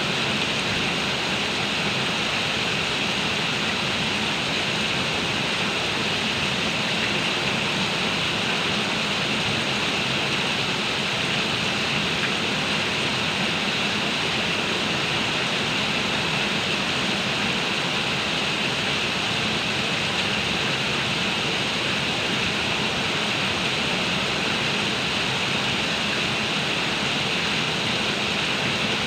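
Heavy rain pouring down, a loud, even hiss that holds steady without let-up.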